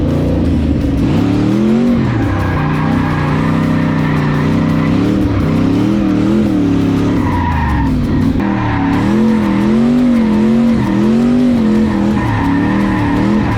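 LS V8 in a swapped BMW E36 revving up and down while the car drifts, its pitch rising, falling and wavering repeatedly, with tyres squealing and skidding.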